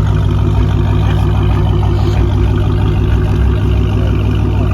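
Straight-piped Dodge Hellcat's supercharged V8 idling with a loud, steady, pulsing rumble.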